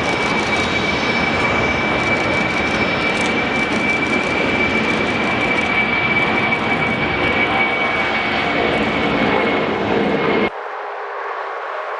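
Jet airliner engines running loud, a steady rushing noise with a high whine held on one pitch. About ten seconds in it cuts off suddenly, replaced by a quieter, thinner hiss.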